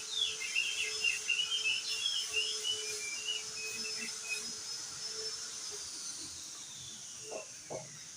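Crested white-eye (opior jambul) singing a fast, twittering song of short chirps that stops about halfway through, over a steady high whistle-like tone that slides downward near the end. A couple of short low calls come near the end.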